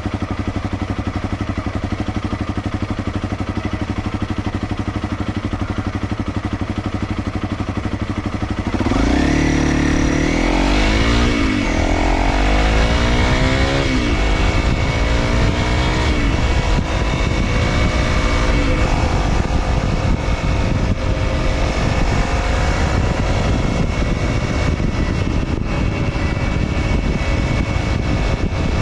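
Honda CRF250L's single-cylinder engine through a DELTA Barrel 4S aftermarket silencer, running steadily at first. About nine seconds in it accelerates through the gears, the pitch rising and falling back about four times. It then settles into a steady cruise.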